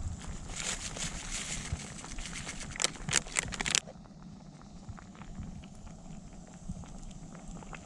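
Wood campfire crackling, with a cluster of louder pops about three seconds in. Just before four seconds the sound drops abruptly to a much quieter background with sparse faint ticks.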